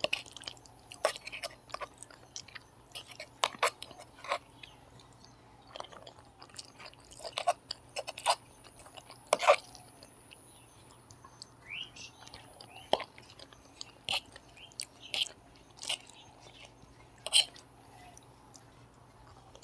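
Close-up mouth sounds of someone eating Maggi instant noodles: chewing, lip smacks and sharp wet clicks at an irregular pace.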